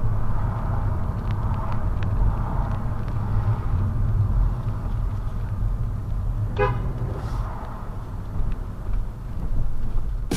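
Steady engine and road rumble heard from inside a car, with one short car-horn toot about six and a half seconds in.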